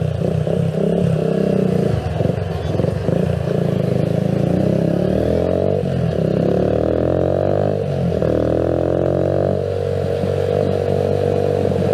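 Keeway CR152 motorcycle's single-cylinder engine running under way, loud and close. Its pitch climbs, drops about eight seconds in, climbs again and then holds steady. The acceleration is jerky and lagging, which the rider blames on a poor fuel mixture after the bike sat unused.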